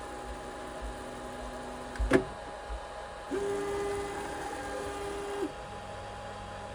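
3D printer running with a steady fan hum, a sharp click about two seconds in, then a steady motor whine for about two seconds that starts and stops abruptly.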